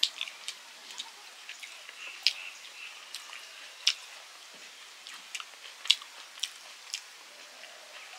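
Close-up chewing and mouth smacks of a person eating rice and curry by hand, with short sharp smacks coming at irregular intervals. The loudest come about two, four and six seconds in.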